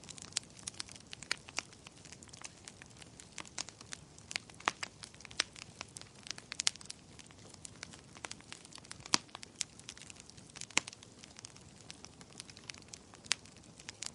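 Fire in a fireplace crackling: irregular sharp pops and snaps, a few louder than the rest, over a soft low rush of flames.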